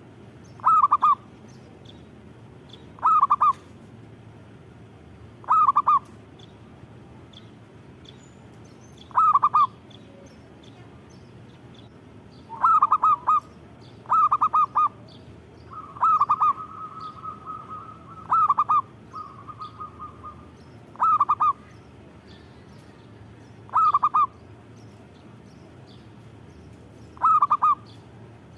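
Zebra dove (perkutut) cooing: short rolling phrases repeated every two to three seconds, with a longer continuous trill in the middle.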